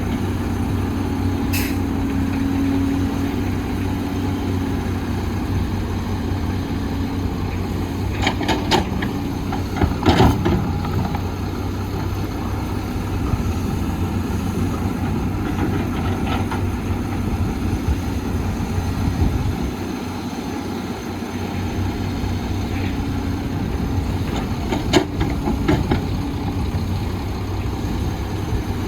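Heavy diesel construction machinery running steadily, with a few sharp knocks, about four in all.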